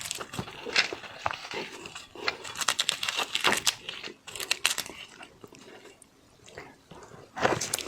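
Close-miked eating of raw seafood: crunchy bites and wet chewing in a quick, irregular string. The bites thin out for a moment, then return louder near the end.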